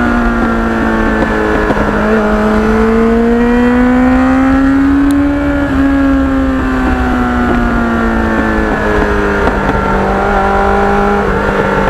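Kawasaki Ninja motorcycle engine running under way on the road, its note climbing steadily for about six seconds, breaking briefly, then slowly falling as it eases off, over a low rumble of wind and road noise.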